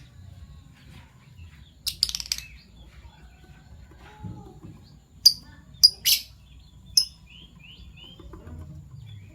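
Fischer's lovebirds chirping in short, high-pitched calls: a quick cluster about two seconds in, then four sharp, louder calls a little over halfway through, with faint softer chirps in between.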